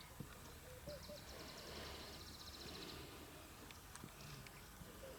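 Faint outdoor bush ambience: a rapid, high-pitched trill of ticks starts about a second in and lasts about two seconds, with a few faint short chirps, over a steady low rumble.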